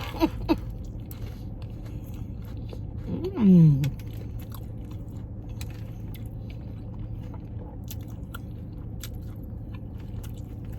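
Close-up chewing and crunching of a fried potato-coated corn dog, with small crisp clicks, and a loud hummed "mmm" of enjoyment about three and a half seconds in. A steady low hum runs underneath.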